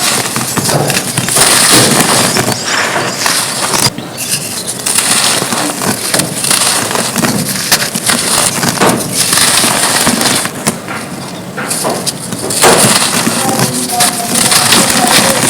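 Red dirt cones being crushed and crumbled, a dense run of crisp crackling and crunching that swells and eases without a break.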